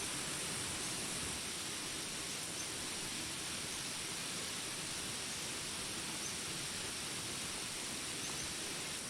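Steady rainfall, an even hiss that holds at one level throughout, with a few faint, short high chirps from jungle animals now and then.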